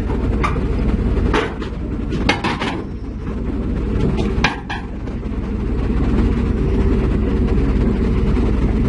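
Heavy diesel engine of a construction machine running steadily, with several sharp metal clanks in the first few seconds. The engine grows louder from about halfway through.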